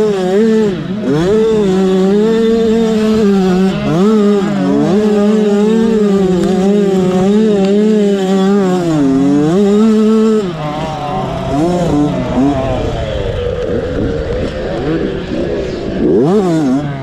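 Motocross dirt bike engine revving hard, its pitch rising and falling again and again as it is shifted and throttled. About ten seconds in, the close engine note drops away and several bike engines are heard rising and falling over one another.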